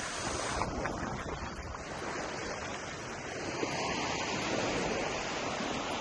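Ocean surf washing onto a beach, a steady rush that swells slightly in the second half, with wind rumbling on the microphone.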